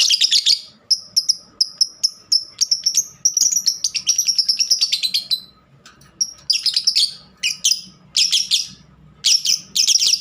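Pet lovebirds chirping and chattering in fast runs of high-pitched notes, with short pauses between bursts.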